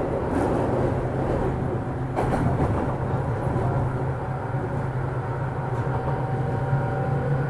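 JR 205 series electric commuter train running at speed, heard inside a motor car: a steady low hum from the externally fan-cooled traction motors and rolling noise from the wheels on the rails. There are two short rail-joint clicks in the first few seconds, and a faint motor whine comes in near the end.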